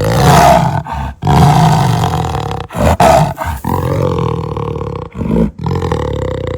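Jaguar roaring: a series of loud, deep roars broken by short breaks.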